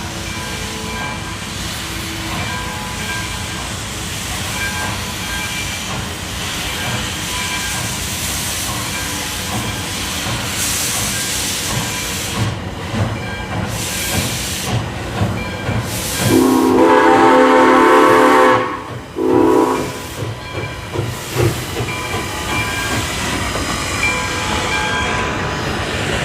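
Nevada Northern 93, a 2-8-0 steam locomotive, hissing steam as it moves off. A little over halfway through its chime steam whistle gives one long blast, then a short one.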